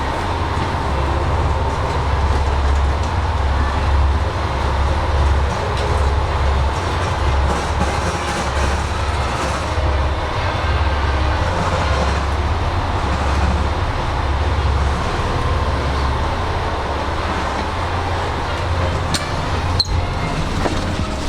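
Diesel railcar standing at the platform with its engine idling, a steady low rumble. A single sharp click near the end.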